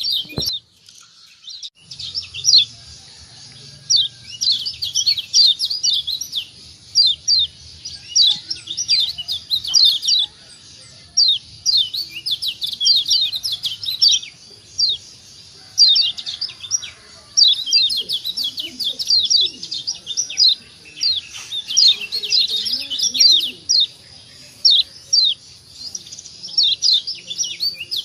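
Lombok yellow white-eye (kecial kuning) singing in fast chattering phrases of quick, high, sweeping notes, each phrase a second or two long with short pauses between. The song drops out briefly just after the start, and a faint steady high whine runs underneath.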